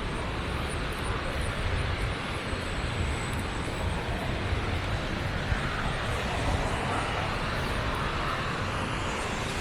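A large waterfall rushing steadily, a continuous even roar with a strong low rumble.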